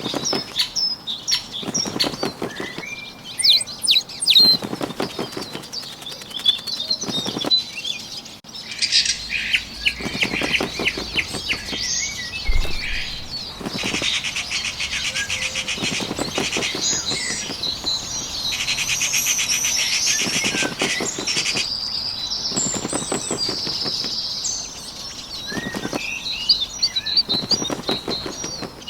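Bird sound effects: bird wings flapping in short bursts every couple of seconds, over birds chirping, with a long rapid trill in the middle stretch.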